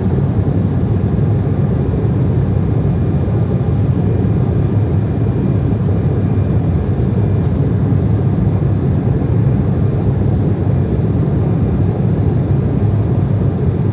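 Steady cabin noise of an Embraer ERJ-190 airliner in flight: the General Electric CF34 turbofans and the airflow make a loud, unchanging low rumble.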